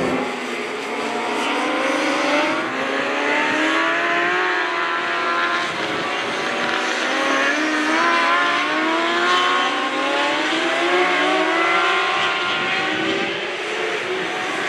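Engines of several 600cc four-stroke J-GP2 racing motorcycles on track, their pitch rising and falling over and over as the bikes accelerate through the gears and shut off for corners.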